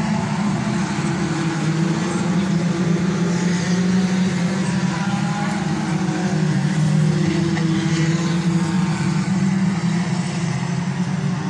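Engines of several banger racing cars running together, a steady drone whose pitch wanders a little as they rev and ease off.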